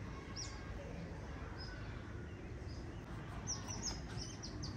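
Outdoor background noise with a few faint bird chirps, then, from about three and a half seconds in, a bird calling in a rapid run of short, high, downward chirps, about six a second.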